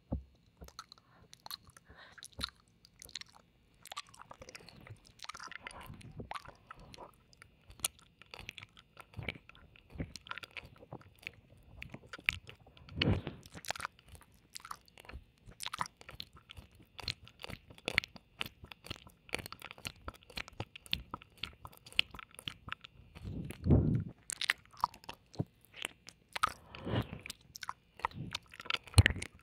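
Close-miked wet mouth sounds of ear-licking and kissing ASMR, heard in the left ear: many irregular soft clicks and smacks. There are two louder low thuds, one about a third of the way in and one near the end.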